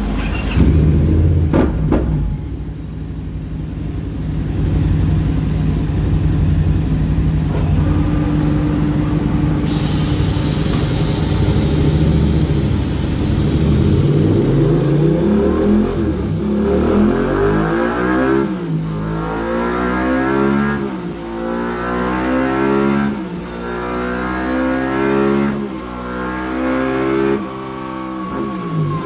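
Yamaha MT-07's 689 cc parallel-twin engine with a full Scorpion exhaust on a dyno. It runs steadily at first, then about halfway through it revs up in a series of rising sweeps, each dropping back before climbing again.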